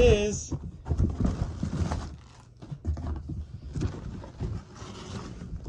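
Cardboard box and packaging being handled: irregular knocks, scrapes and rustling, with a quieter stretch about two and a half seconds in.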